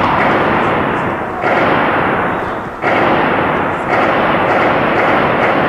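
Heavy, sustained gunfire merging into a continuous loud echoing roar, with fresh bursts breaking in about one and a half, three and four seconds in.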